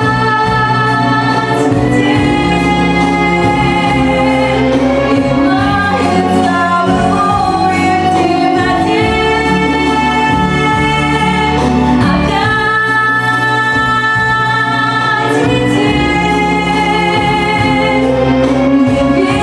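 A female voice sings a slow Russian pop ballad over a backing track, holding long notes.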